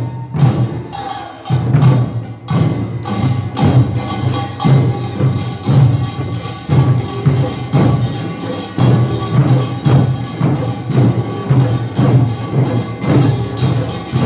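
Korean nongak (pungmul) farmers' percussion band playing: fast, dense drum and gong strokes in a driving, even rhythm. It is briefly sparser in the first couple of seconds, then fills out.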